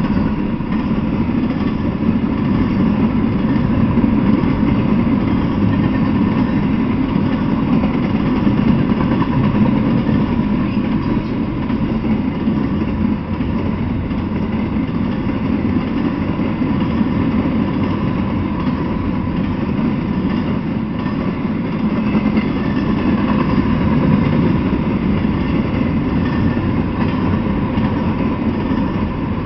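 Intermodal freight train of container well cars, many of them empty, rolling past at steady speed: a continuous low rumble of wheels on rail.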